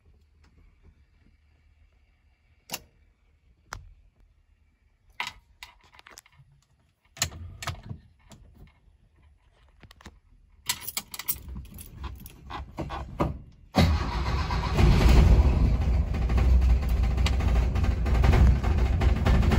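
Keys jangling and clicking at the ignition, then a 1966 Toyota Corona's four-cylinder engine cranking on the starter from cold for about three seconds. About two-thirds of the way through it catches and keeps running loudly.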